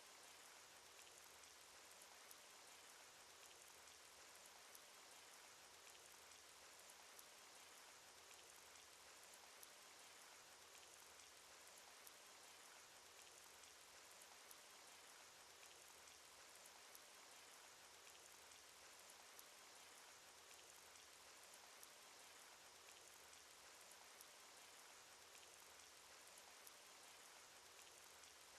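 Cartoon rain sound effect: a steady, faint hiss of falling rain with scattered individual drop ticks.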